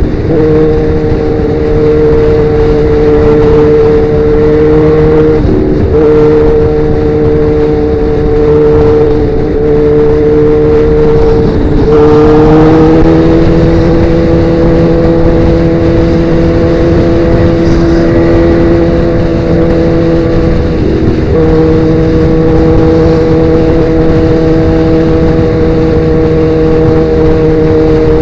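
Sportbike engine with aftermarket Danmoto XG-1 exhaust pipes running at a steady cruising pitch while the bike is ridden. The note dips briefly three times, and after each dip it settles at a slightly different steady pitch.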